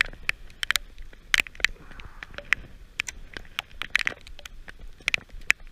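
Raindrops striking the camera and its surroundings in a heavy downpour: irregular sharp ticks and taps over a faint low rumble.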